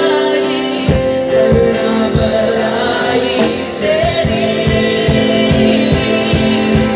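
Hindi Christian worship song: singing over instrumental backing, with a steady drum beat that comes in about a second in.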